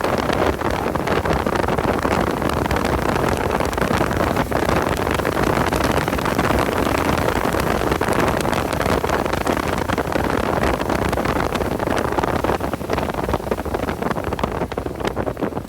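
Car driving at speed on a race track, its engine blended with heavy wind noise buffeting the microphone, easing slightly near the end.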